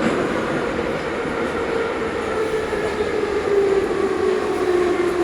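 Ezh3 metro car running between stations, heard from inside the car: a steady rumble of wheels on rail under a motor whine that slowly falls in pitch as the train slows for the next station.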